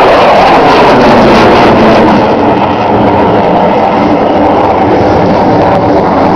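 Loud jet noise from an F/A-18F Super Hornet's twin turbofan engines as the fighter flies by, easing slightly after about two seconds.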